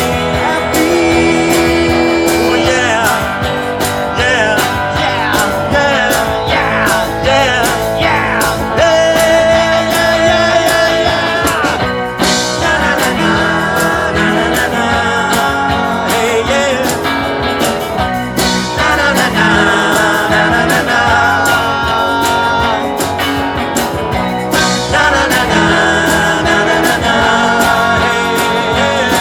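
Live band playing a rock-and-roll number: a steady drum beat under guitar and held melody notes.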